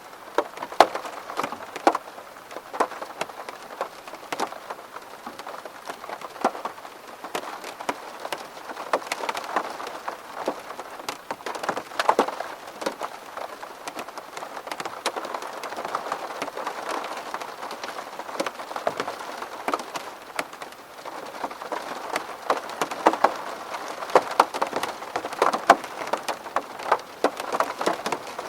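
Rain falling on a window pane: a steady hiss of rain with many separate, sharp drop hits on the glass.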